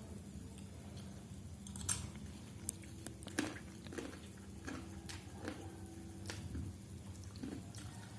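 A person eating fried instant noodles: chewing and mouth smacks, with scattered short sharp clicks.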